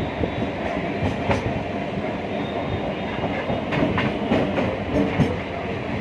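Train running along the track: a steady rumble of wheels and carriage, with irregular clacks as the wheels cross rail joints, several close together in the second half.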